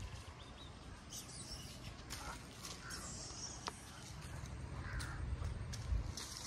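Faint bird calls, a few short caws, over quiet outdoor ambience.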